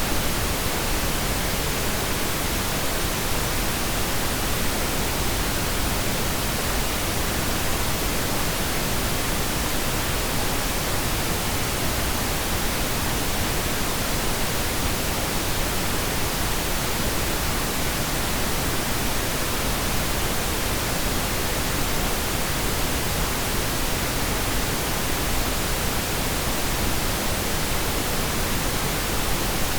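Steady pink noise: an even, constant hiss with no changes or events.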